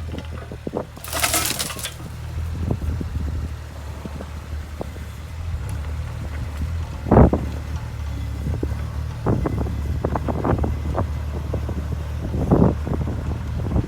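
JCB 8016 mini excavator's diesel engine running steadily, with scattered clunks and knocks from the digging work, the loudest about seven seconds in and near the end. A brief hiss about a second in.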